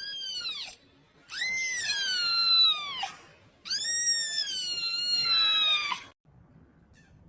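A kitten crying out in three high-pitched meows: a short one, then two long drawn-out calls that rise and then fall away. The cries stop about six seconds in.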